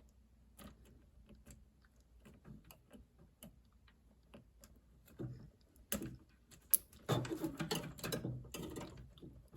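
Scattered small clicks and rattles of hands fitting wire connectors onto the terminals of a refrigerator's water inlet solenoid valve, busier and louder about seven seconds in, with one sharp click.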